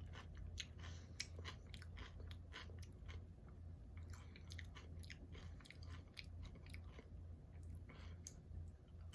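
Close-up chewing of chips with dip: a run of faint, irregular crisp crunches and mouth clicks, over a low steady hum.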